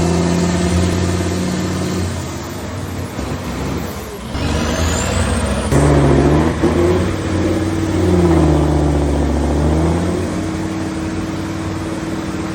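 Big mud-bog truck engines running hard and revving, the pitch dropping and climbing back up near the middle, with a faint high whine rising in pitch a few seconds in.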